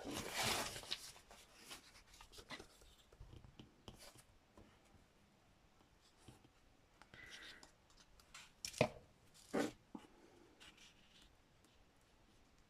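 Quiet rustling and handling of paper collage pieces on a work surface, with scattered small clicks and two sharper taps close together about two-thirds of the way through.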